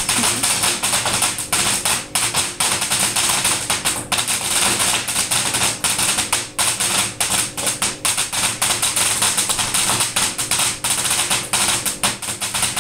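Firework crackling continuously: a dense, rapid stream of small pops over a steady fizzing hiss.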